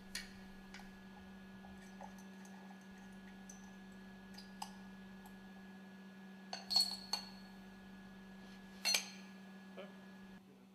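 Scattered light metallic clinks from metal parts and tools being handled while the protective caps come off the exhaust valve studs of a marine engine cylinder cover. There is a cluster of clinks about seven seconds in and a sharper one near nine seconds, over a steady low hum.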